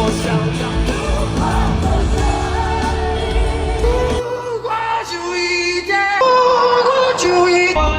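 A song with a sung lead vocal over full band backing. About four seconds in, the bass drops out, leaving the voice holding long notes over lighter accompaniment.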